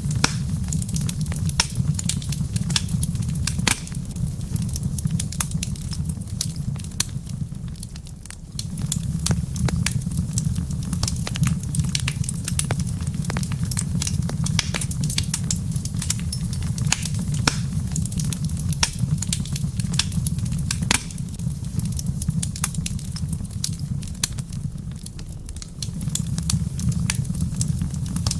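Wood fire crackling in a fireplace: frequent irregular sharp pops and snaps over a steady low rumble of the flames, which eases briefly twice.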